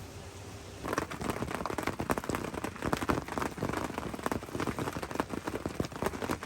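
Rain pattering in dense, irregular drops. It starts abruptly about a second in, after a steady hiss.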